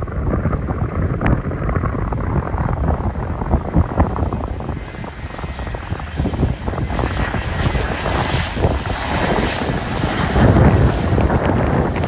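Airplane engines passing, a rush of high hiss growing from about five seconds in, over gusting wind buffeting the microphone.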